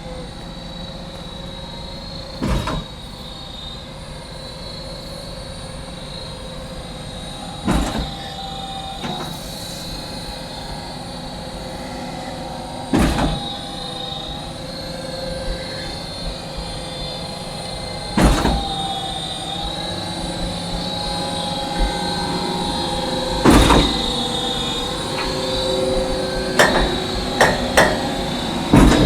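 Concrete-pouring machinery running with a steady high whine and a heavy clunk about every five seconds, the clunks coming closer together near the end.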